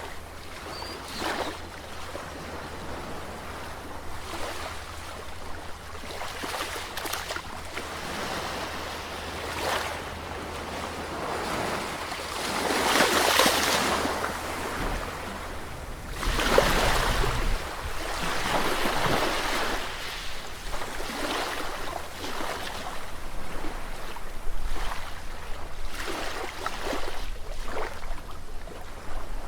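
Sea waves breaking and washing on a shore in irregular surges, with two bigger waves breaking near the middle, over a steady low rumble.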